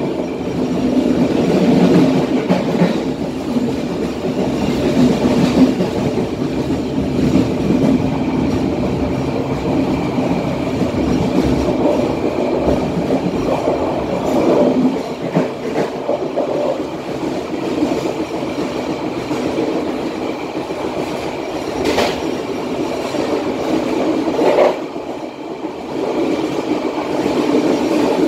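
Matarmaja passenger train's carriage running along the rails at about 60 km/h and gathering speed, a steady rolling rumble of wheels on track. Two sharp knocks stand out, about 22 and 25 seconds in.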